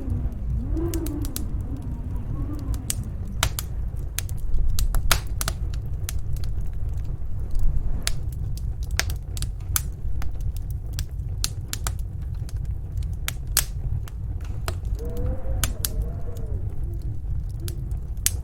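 Fireplace crackling, with sharp pops and snaps scattered irregularly over the steady low rumble of a snowstorm wind. The wind howls in wavering tones at the start and again about fifteen seconds in.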